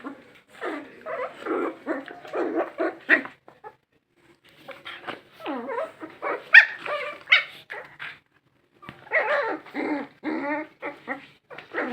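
Dogs barking in quick runs of short barks, in three bouts with brief pauses about four and eight seconds in.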